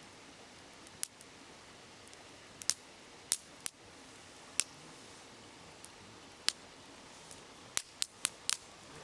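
Wood campfire crackling, with about ten sharp pops, four of them in quick succession near the end, over the steady rush of a babbling river.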